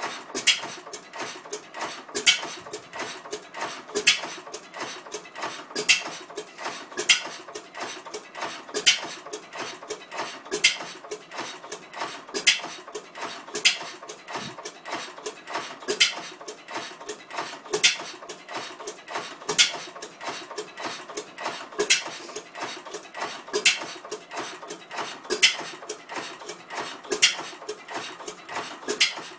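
1910 Gardner 1F open-crank stationary gas engine running, a steady clatter of small clicks with a louder sharp crack every one to two seconds.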